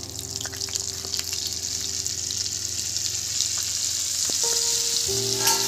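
Ground spice paste frying in hot oil in a pan: a crackling sizzle that grows steadily louder.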